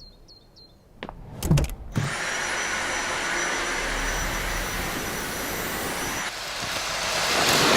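A vacuum cleaner starts after a few knocks and runs steadily, a constant motor hum and airflow with a thin high whine; it dips briefly and then gets louder near the end.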